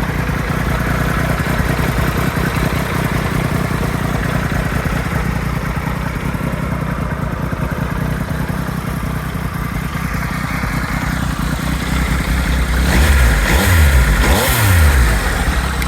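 2020 Triumph Tiger 1200 XCX's three-cylinder engine idling through an aftermarket Arrow silencer, then revved twice near the end, each rev rising and falling quickly.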